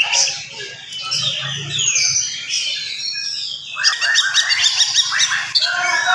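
Oriental magpie-robin (kacer) singing a fast, dense song of varied whistles and chirps, breaking into a rapid run of quick repeated notes about four seconds in.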